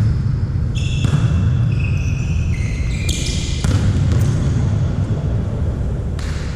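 Volleyball ball struck several times during a rally in a sports hall, with shoes squeaking in short bursts on the court floor over a steady low hall rumble.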